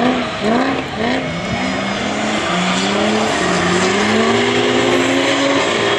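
Drift car engine revving hard in quick up-and-down swings for about two seconds, then holding a long, slowly rising pull, over a steady hiss of tyre noise.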